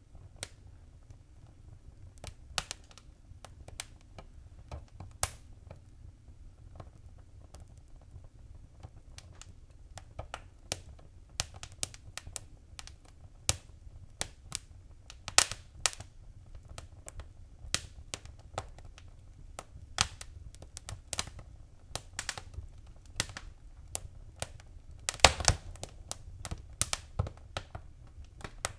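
Wood fire crackling: irregular sharp pops and snaps over a low steady rumble, thickening after the first few seconds, with the loudest cluster of pops near the end.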